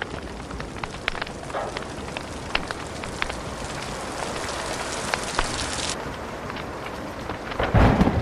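Wood fire crackling with irregular sharp pops over a steady hiss of rain. A loud low thunder rumble breaks in near the end.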